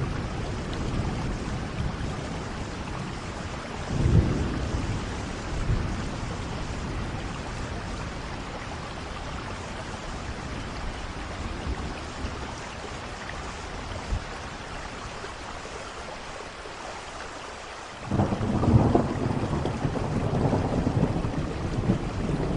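Steady rain with thunder: a short rumble about four seconds in, then a louder, longer roll of thunder that starts suddenly near the end.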